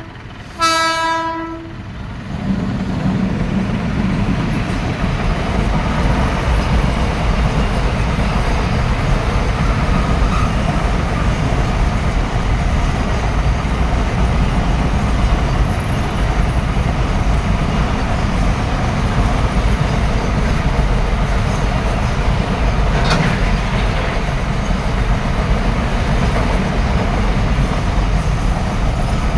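Train horn blowing once, about a second long, near the start. It is followed by the steady rumble and wheel-on-rail clatter of a train passing close by.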